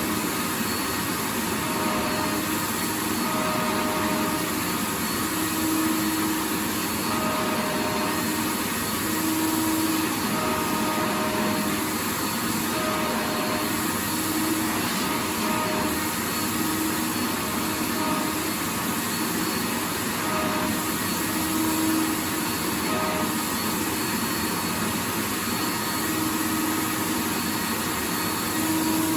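Vacuum cleaner running steadily, a continuous rushing hiss with a faint motor hum that swells and fades every second or two.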